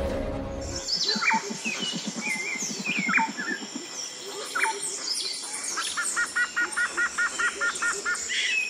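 Music fades out in the first second and gives way to forest birdsong: varied chirps and sweeping whistles from several birds. Near the end one bird calls a fast run of about a dozen repeated double notes, about five a second.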